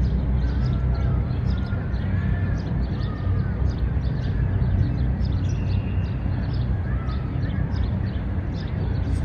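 Outdoor city-park ambience: a steady low rumble of distant traffic with many short bird chirps scattered over it.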